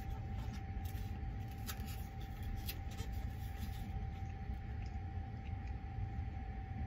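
Steady low rumble of the Sunrise Izumo/Seto sleeper train running, heard inside its compartment, with a faint steady whine over it. A few light clicks of wooden chopsticks against the bento box come about two to three seconds in.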